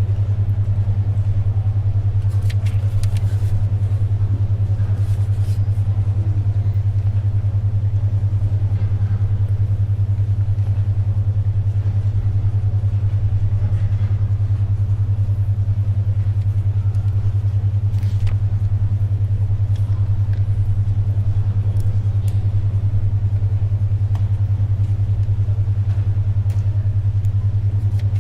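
Synthetic 10.2 Hz alpha-wave brainwave tone: a steady low hum near 100 Hz that pulses rapidly and evenly, about ten times a second. Underneath lies faint library room noise with a few soft rustles and taps of paper and writing.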